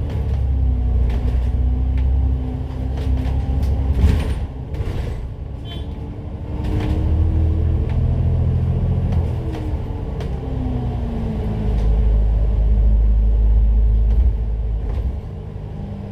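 Citybus bus engine and drivetrain running under way, the engine note rising and falling as it speeds up and slows, with a deep rumble and a few rattles about four to six seconds in.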